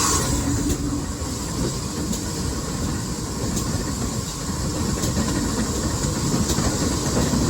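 Heritage railway train running along the track: a steady rumble of the carriages with a few clicks of the wheels over the rails.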